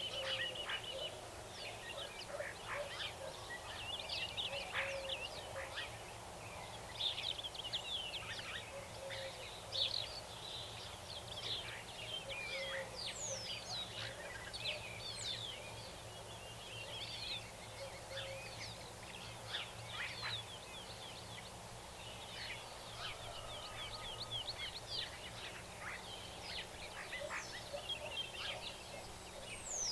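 Several wild birds singing and calling at once: a dense, continuous mix of short chirps, trills and quick whistled sweeps, with no single voice standing out.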